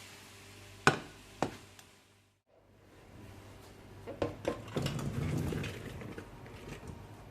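Household items being handled: two sharp knocks about a second in, then a run of clinks and clatter with a low rumble underneath.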